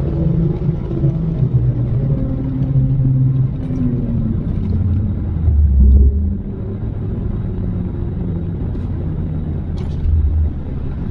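Mini R56's turbocharged four-cylinder engine with an aftermarket flap exhaust, heard inside the cabin at track speed. The engine note falls over the first few seconds, there is a brief louder low rumble about halfway, and then it runs quieter and steady as the car slows.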